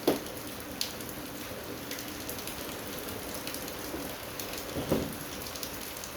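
A few sharp clinks and knocks of small metal scrap parts being handled: one at the start, a lighter one about a second in, and one near five seconds with a brief ring. A steady hiss runs underneath.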